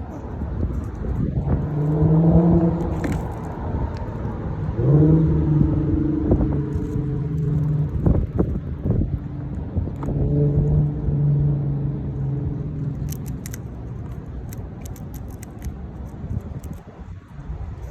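Snowstorm wind rumbling on the microphone, with a low droning hum that swells in three times for a second or two each. A quick run of small sharp clicks comes near the end.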